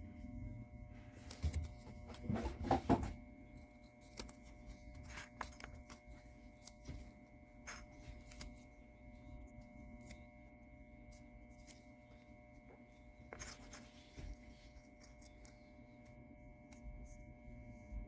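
Scattered scratching, rubbing and small clicks of hand work at a workbench, busiest about two to three seconds in and again near the middle, over a steady high ringing drone.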